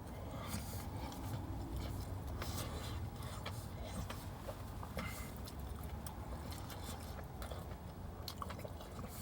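A person chewing a mouthful of chicken sandwich close to the microphone: faint wet clicks and smacks over a low steady rumble.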